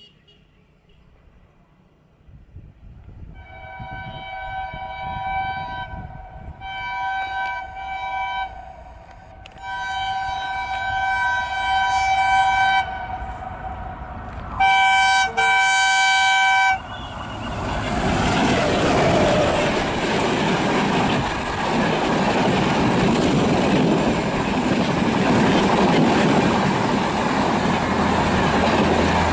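A WDM3A diesel locomotive approaching at speed sounds its horn in four long blasts over its rising engine rumble, the last blast loudest. Then, from about halfway, comes the loud rush of the locomotive and its coaches passing at full speed.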